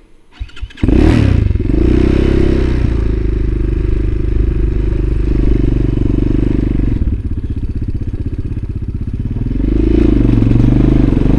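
Motorcycle engine starting about a second in and running loudly, easing off for a few seconds and then revved up again near the end.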